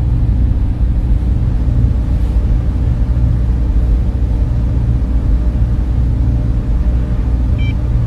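Server room cooling fans running, a steady deep hum and whir with a few constant tones in it. A faint short high beep sounds near the end.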